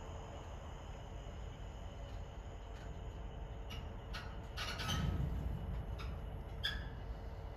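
Freight train of covered hopper wagons rolling slowly past: a steady low rumble with a few short high squeaks, and a louder clunk with a squeak about five seconds in.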